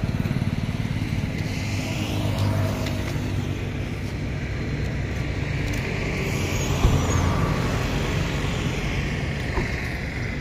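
Car engine running at low speed: a steady low rumble. There is one sharp thump a little past the middle.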